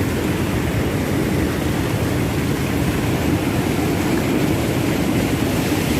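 Small boat under way at speed: a steady, loud rush of motor, wind and water noise.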